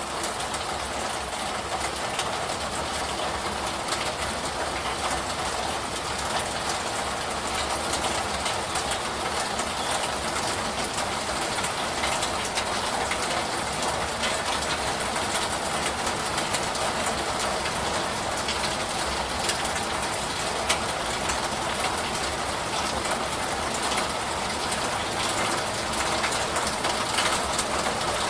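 Steady, continuous rain falling, an even hiss with scattered fine drop ticks and no change in strength.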